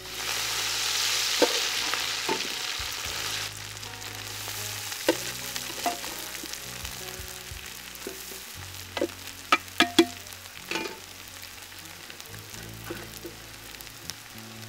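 Flaked fish mixture hitting hot oil with cumin in a large aluminium wok: a loud sizzle for the first three seconds or so, then a quieter frying hiss. A metal skimmer scrapes and taps against the wok as the mix is stirred, sharpest about nine to eleven seconds in.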